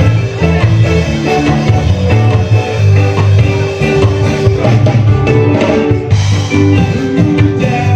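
A band playing a rock song with electric guitar, bass and drum kit; a singing voice may be in the mix.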